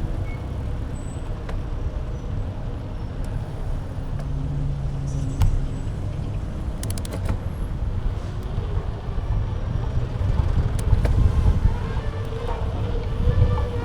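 Steady low rumble of wind and road noise on a bike-mounted action camera's microphone while riding, with a few sharp clicks about five to seven seconds in.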